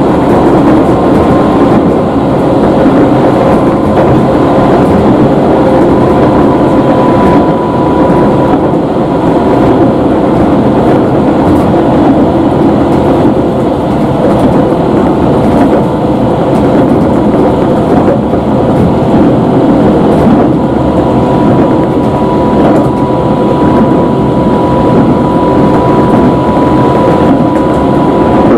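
Cabin noise of a Yagan Railway 6050-series electric train running along the line: a steady rumble of the wheels and running gear, with a steady high tone running through it.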